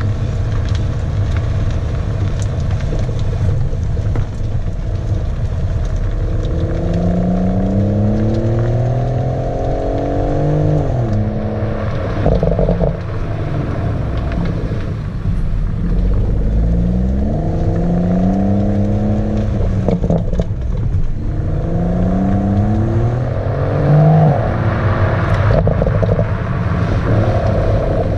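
BMW M140i's 3.0-litre turbocharged straight-six on its standard exhaust, holding a steady note for several seconds, then accelerating hard through the gears: the pitch rises repeatedly and falls back at each upshift. Short cracks from the exhaust come at some of the shifts.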